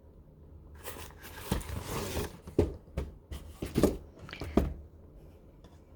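A cardboard box and its packaging being handled and opened: a stretch of rustling and tearing, then several sharp knocks.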